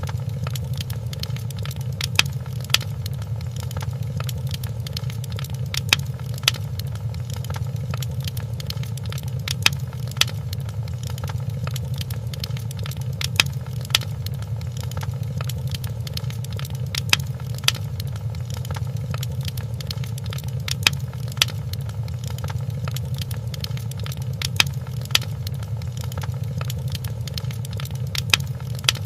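Wood fire in a fireplace crackling: a steady low rumble with sharp pops that come in close pairs about every four seconds.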